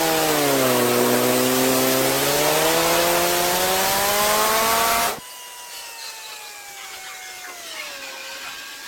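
Automatic car wash machinery: a loud spraying hiss over a motor whine that dips in pitch and then climbs again. It cuts off suddenly about five seconds in, leaving a much quieter hiss with a faint falling whine.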